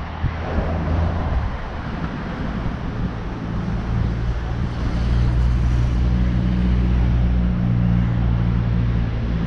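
Car engine idling: a steady low hum that gets a little louder about halfway through, over outdoor street noise.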